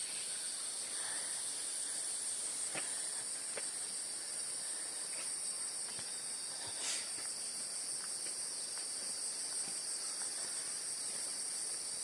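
Steady high-pitched chorus of insects, with a few faint clicks and taps scattered through it.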